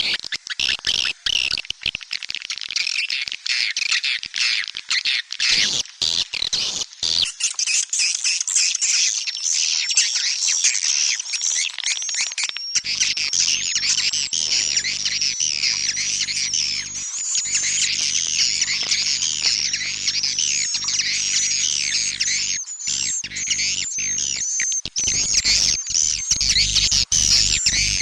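Swiftlet calling-sound lure track: a dense, continuous chorus of high, rapid, overlapping chirps and twitters of edible-nest swiftlets, of the kind played to draw swiftlets into a nesting house. A faint low hum joins about halfway through.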